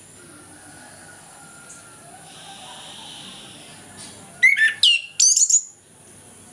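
Orange-headed thrush singing: after a few seconds of faint background, a loud burst of rapid whistled notes sweeping up and down, lasting just over a second.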